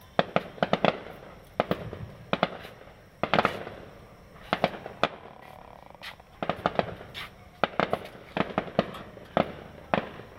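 Fireworks bursting: many sharp bangs in irregular clusters, a few to several a second, with a rumbling wash of echo between them.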